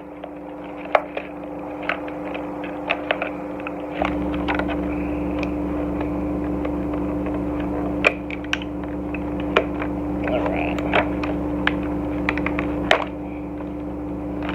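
Plastic toy pieces and their cardboard packaging card being pried and pulled apart by hand: scattered clicks, crackles and creaks. A steady hum runs underneath and grows louder from about four seconds in until shortly before the end.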